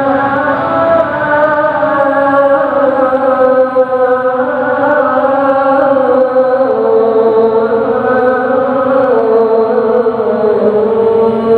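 A single voice chanting long held notes that slide slowly between pitches, stepping lower about two-thirds of the way through.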